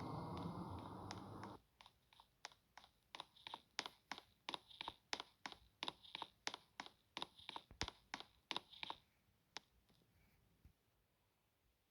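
A low rumbling noise that cuts off suddenly about a second and a half in, then a run of sharp, faint clicks, two or three a second, that thin out and stop near the end.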